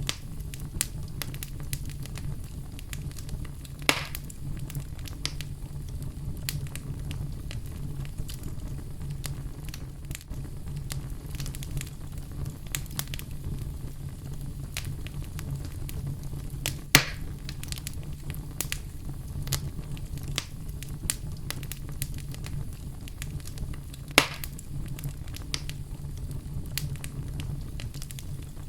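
Wood fire crackling in a fireplace: a steady run of small crackles over a low rumble, with three louder pops spread through.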